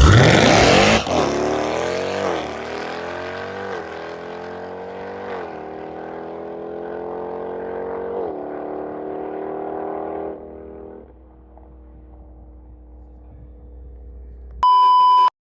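A boosted Hemi V8 car launching hard and accelerating away, its engine note climbing and dropping back through four upshifts as it fades into the distance. A short electronic beep sounds near the end.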